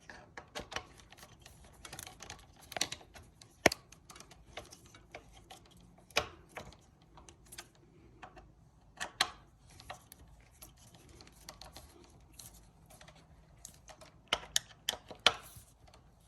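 Irregular light clicks and taps from hands working on bicycle brake parts, with small hard pieces knocking together. They come in scattered clusters, and the sharpest click is a few seconds in.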